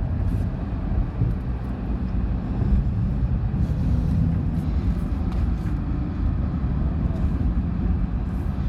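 Car driving, a steady low rumble of engine and road noise heard inside the cabin.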